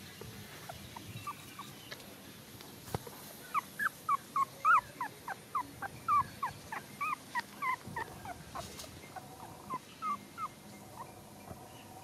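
Newborn puppies whimpering in a rapid string of short, high squeaks that come thickest a few seconds in, with a few more near the end.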